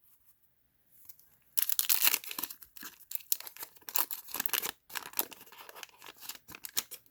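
A 1990 Fleer basketball card pack's wax-paper wrapper being torn open and crinkled by hand. The tearing and crackling start about a second and a half in and go on in quick, loud rips to the end.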